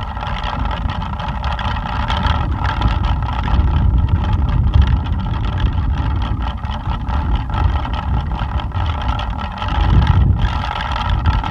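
Plastic pinwheel spinning in strong wind, giving a steady motor-like whirring buzz over the rumble of wind on the microphone, swelling with the gusts.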